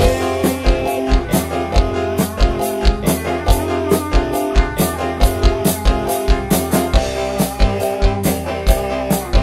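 Live campursari / dangdut koplo band playing through a PA system, with held instrument tones over a fast, steady drum beat.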